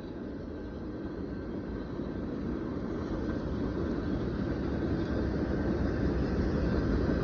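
Freight train cars rolling past: a steady rumble of wheels on rail that grows gradually louder, with a faint steady high tone over it.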